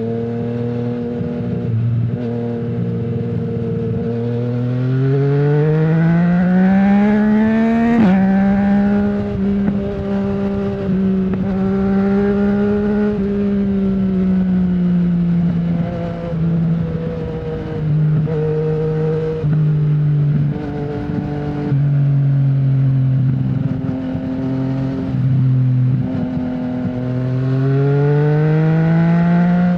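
Yamaha MT-09's 847 cc inline-triple engine through an Akrapovic full-system exhaust with no dB killer, heard while riding. The engine pulls up in pitch, drops sharply at an upshift about eight seconds in, then cruises with the throttle easing on and off, and climbs again near the end.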